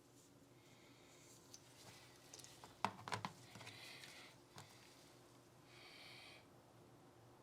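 Faint handling of Glock 19 pistol parts: soft rubbing, a quick cluster of sharp clicks about three seconds in, another single click, and two short brushing rubs.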